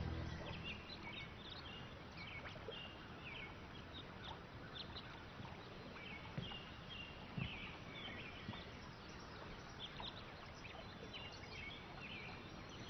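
Faint outdoor ambience: small birds chirping in short high runs of notes over a steady soft hiss.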